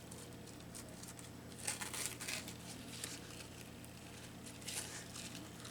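Light rustling and crinkling of paper and craft materials being handled, in a few short bursts about two seconds in and again near the end, over a faint steady low hum.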